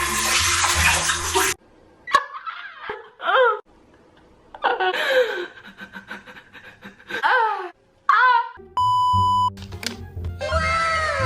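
Edited meme audio: a loud noisy stretch, then a series of short voice-like sounds gliding up and down in pitch, a steady censor-style beep lasting about a second, and music starting near the end.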